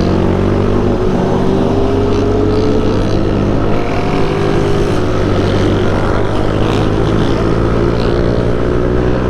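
Motorcycle engines running, a steady low engine note under a second engine note that slowly rises in pitch as a convoy of motorcycles approaches.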